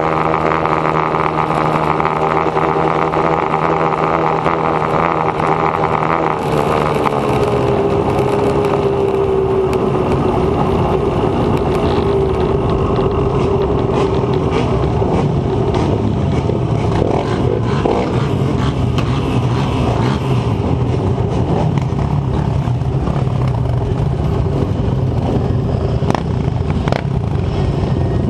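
Dirt bike engine running steadily. About six seconds in its note changes and slowly drops in pitch. After that it runs rougher, with scattered rattles and knocks.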